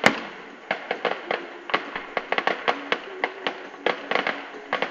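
Fireworks going off: one loud bang right at the start, then a rapid run of sharp cracks and pops.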